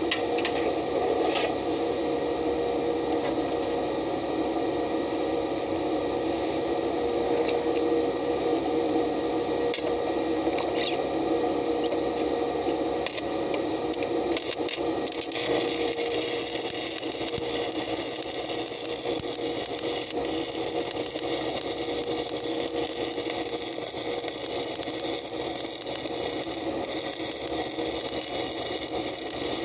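Steady hum of a welding machine, with scattered sharp clicks in the first half. About halfway in, a steady crackling hiss sets in, typical of a stick-welding arc.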